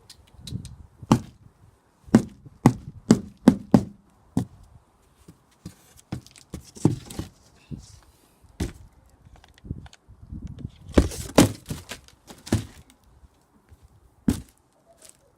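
Cardboard box being struck repeatedly with a vacuum cleaner pole: sharp, irregular whacks. There is a quick run of about five blows in the first few seconds, scattered single hits, and another fast flurry about two-thirds of the way through.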